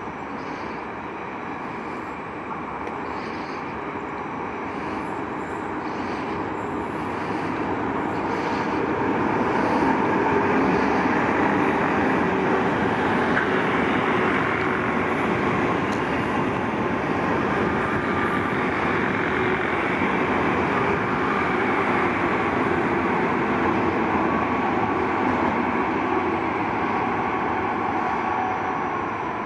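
Trenitalia Frecciarossa 1000 high-speed electric train moving through the station: a steady rumble of wheels on rails with a faint electric whine. It grows louder over the first ten seconds, stays loud while the train goes by, and eases off near the end.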